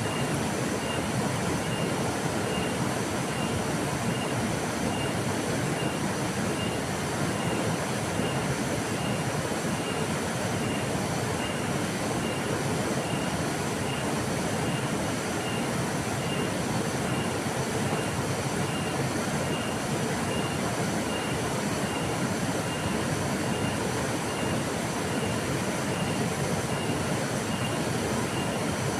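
Flowing river water, a steady rushing with no breaks. A faint short high tone repeats about once a second over it.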